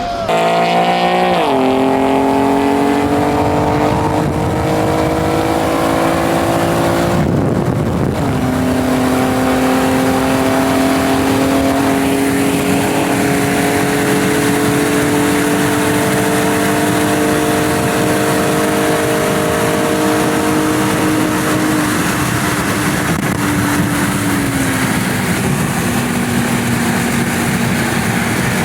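Car engine pulling hard under acceleration, its pitch climbing steadily through the gears. There are upshifts about a second in and about eight seconds in, each followed by a long rise in pitch, and the throttle eases off slightly near the end.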